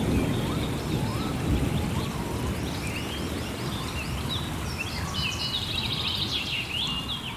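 Dying thunder rumble under steady rain, with birds calling over it: repeated short rising notes, then a busy burst of chattering calls about five seconds in. The overall level eases off near the end.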